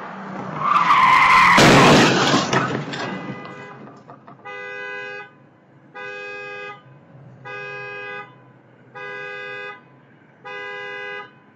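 Tyres screech and a car hits something with a loud crash. Then a car horn sounds in five even honks, about one and a half seconds apart, like a car alarm.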